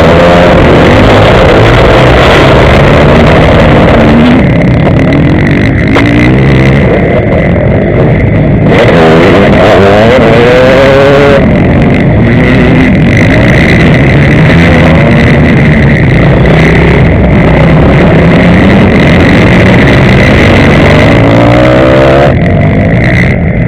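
Motocross bike engine, loud and close, revving up and down again and again as the bike accelerates and shifts, with a loud rushing noise behind it that eases for a few seconds about a third of the way through.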